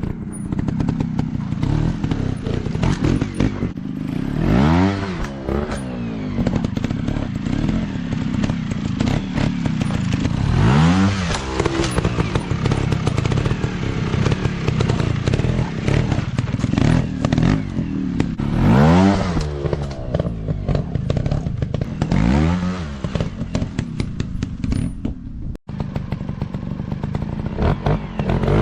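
Small single-cylinder dirt bike engine running at low revs with a rattle, revved up and back down four times, with a fifth rev starting near the end.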